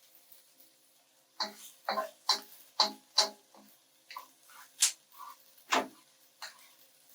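A cooking utensil clinking and scraping against a pan as sautéed onions are scooped out. It makes a quick series of sharp clicks and knocks, several a second, starting about a second and a half in and thinning out near the end.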